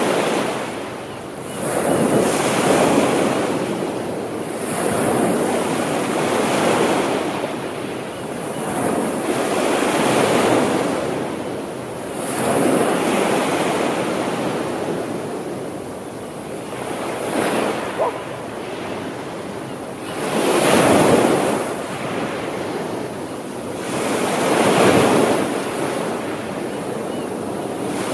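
Sea waves breaking and washing up the shore, swelling and falling away every few seconds.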